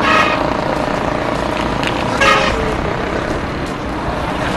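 A vehicle horn tooting briefly twice, once at the start and again about two seconds in, over steady road traffic and engine noise.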